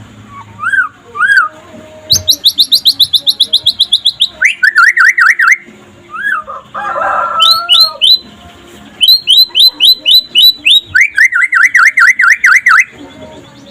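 Young white-rumped shama (murai batu) singing in varied phrases: two short rising whistles, then fast runs of repeated notes, about ten a second, alternating with rapid up-and-down trills. There is a short harsh call about seven seconds in.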